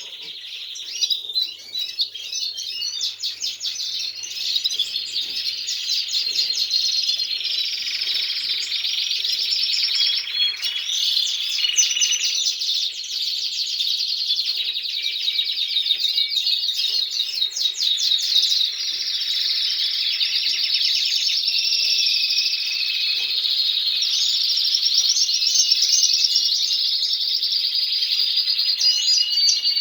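Domestic canaries singing without a break: long rolling trills of rapidly repeated notes and chirps that change pitch every few seconds.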